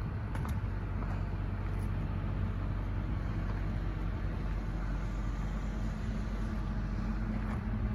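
An engine running steadily at an even idle, a low, constant hum with no change in speed.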